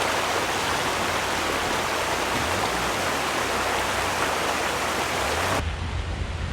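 Steady rushing noise, like running water, that cuts off abruptly about five and a half seconds in, giving way to a low engine rumble.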